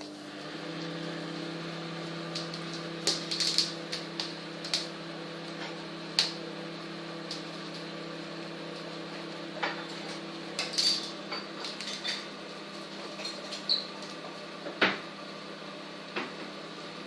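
Microwave oven running with a steady hum, its tone changing about ten seconds in, with scattered light clicks and taps over it.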